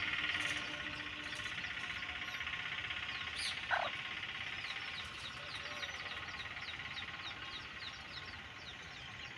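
A steady, dense chorus of calling wildlife outdoors, with a bird giving quick, repeated falling chirps, about two or three a second, from about halfway through, and one louder single call about four seconds in.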